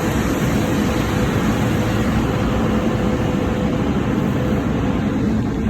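Car wash machinery running steadily during a wash cycle: a continuous rush of spray and equipment noise with a steady hum.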